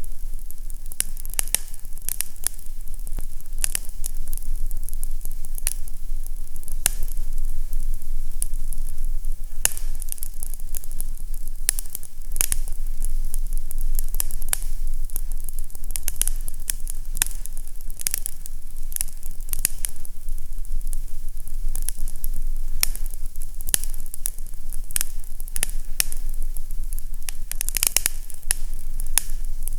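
Fireplace fire crackling: frequent, irregular sharp pops and snaps over a steady hiss and a low rumble.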